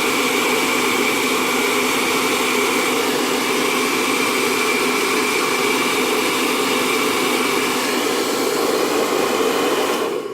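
Handheld hairdryer running steadily, a constant rush of air with a thin whine above it, switched off about ten seconds in.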